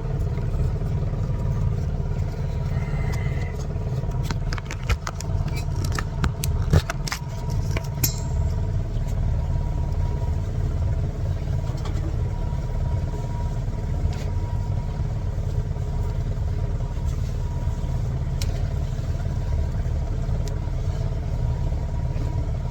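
Small fishing boat's outboard motor running steadily under way, a low even rumble, with a few sharp knocks about four to eight seconds in.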